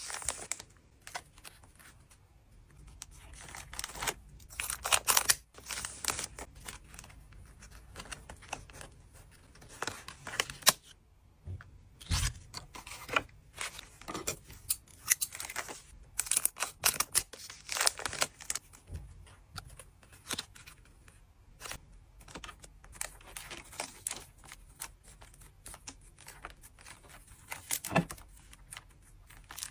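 Trading card packs being torn open and the cards handled: a continuous run of irregular tearing, crinkling and flicking rustles.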